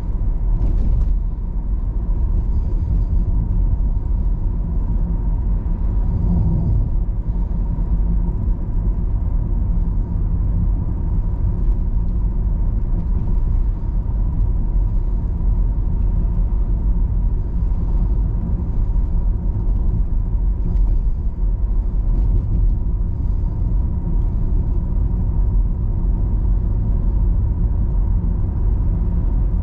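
Car driving along roads: a steady low rumble of engine and tyre noise, with a faint steady high whine.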